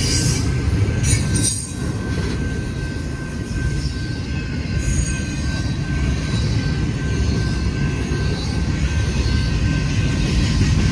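Union Pacific freight train rolling past, a steady heavy rumble of wheels on rail with brief high wheel squeals about a second in and again about five seconds in.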